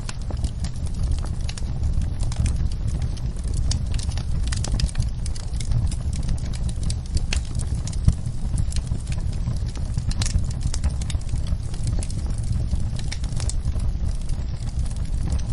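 Wood fire in a fireplace crackling and popping over a steady low rumble of burning, with one sharper pop about halfway through.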